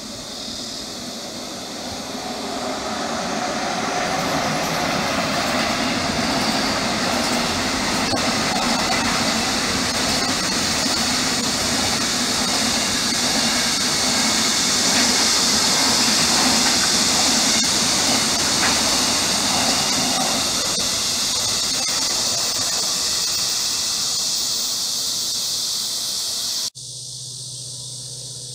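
Freight train passing on the railway: a loud, steady noise of wheels on rail with a high hissing edge, building over the first few seconds and then holding. It cuts off suddenly near the end.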